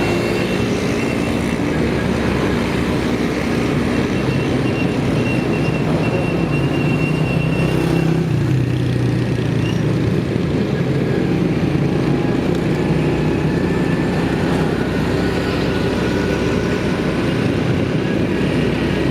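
Motorcycle engine running steadily while riding through town. The engine note shifts about eight seconds in.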